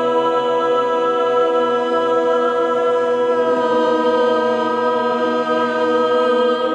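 Vocal ensemble holding the long final chord of a song, steady and loud; a lower voice moves to another note about halfway, and the chord cuts off at the very end.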